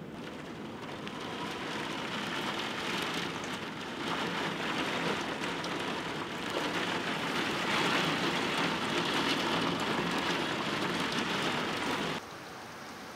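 Heavy rain pouring down in a severe thunderstorm, growing louder in surges, then dropping off suddenly near the end.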